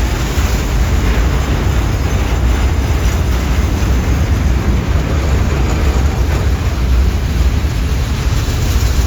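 Freight train of container wagons rolling past, a loud steady rumble with no distinct beats or horn.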